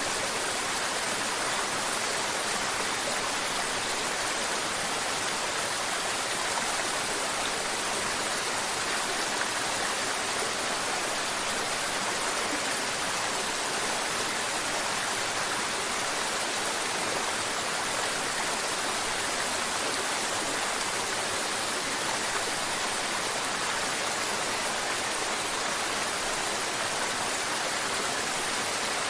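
Mountain river water babbling and flowing: a steady, even rush with no breaks or distinct splashes.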